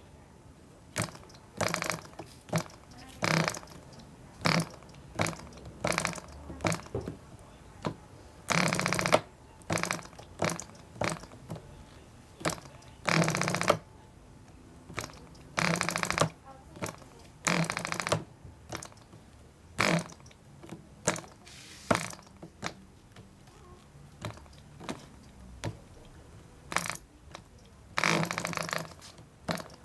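PAW 0.5 cc model diesel engine being started: it fires in short popping bursts, most under a second, a few a little longer, then dies each time without catching and running.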